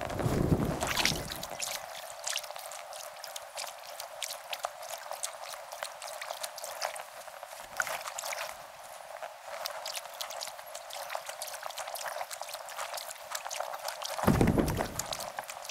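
Kayak paddle strokes sped up, heard as a quick, dense patter of water dripping and splashing off the paddle blades. There are two louder low rumbles, one at the start and one near the end.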